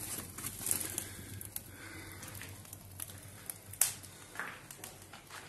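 Fire crackling in a homemade fireplace, with scattered pops, the sharpest about four seconds in.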